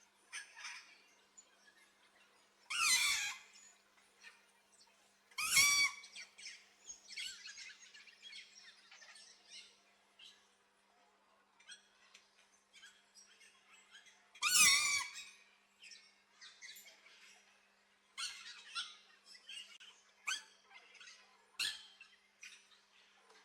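Parrots calling: three loud, harsh squawks, about 3, 5.5 and 15 seconds in, with softer chirps and chatter between them and a busier run of calls near the end.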